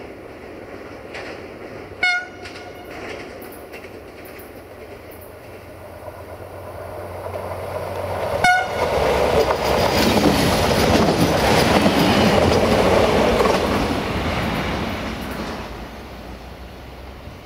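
Siemens Desiro (VT642) diesel multiple unit sounding two short horn toots about six seconds apart as it approaches. It then passes close by, its running noise and wheels on the rails rising to a peak and fading as it goes away.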